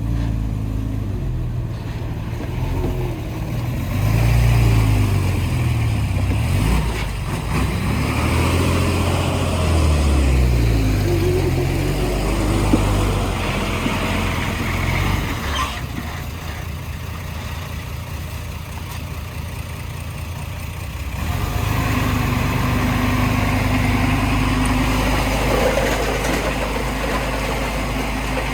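Heavy diesel engines of earthmoving machinery running, their pitch rising and falling as they rev up and down, then switching abruptly about 21 seconds in to a steadier engine sound.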